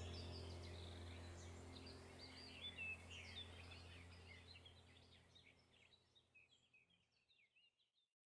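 Birds chirping in many quick, overlapping short notes over a steady low hum, the whole fading out to silence.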